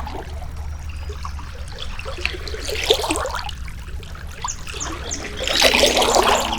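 Water trickling and splashing like a small brook, swelling louder for about a second near the end.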